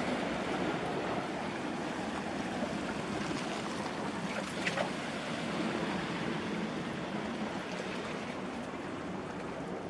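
Steady outdoor background wash with no clear single source, and a short sharp click a little before the middle.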